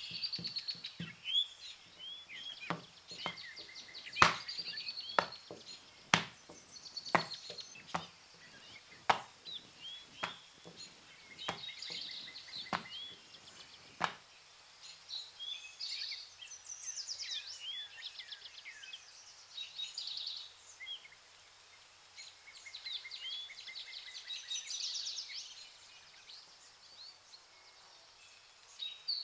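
Thin sheets of porotta dough slapped onto a wooden table as they are flung and stretched: sharp smacks about once a second that stop about halfway through. Small birds chirp throughout.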